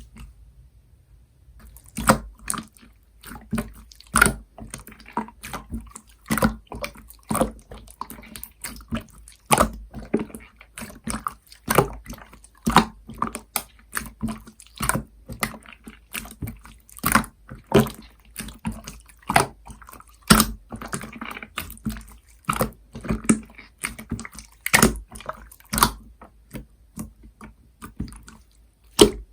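Glossy syrup slime being squeezed and pressed by hand, giving sharp wet clicks and squelches at an uneven pace of about one or two a second.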